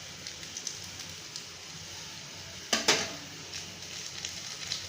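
Instant noodles simmering in a little water in a pan, a steady crackling bubble, with one sharp knock about three seconds in.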